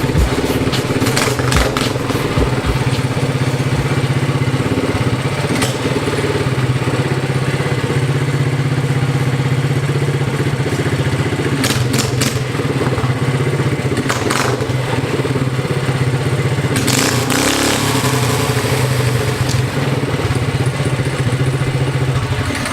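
Small mini bike engine running steadily at a constant speed, with a few sharp clicks and knocks over it.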